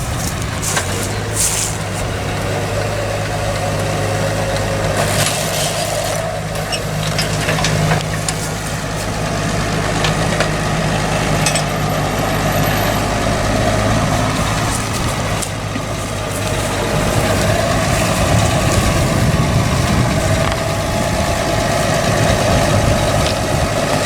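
Tractor engine running steadily under load while pulling a reversible plough through stony ground, with a few short clanks and knocks from the implement partway through.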